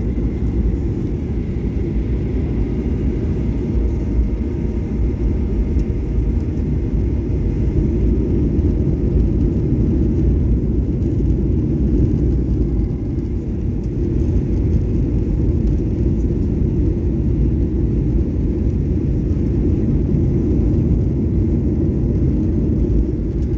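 Steady cabin noise of a Boeing 737-800 airliner descending to land: a continuous low rumble of airflow and jet engines, with a faint high whine.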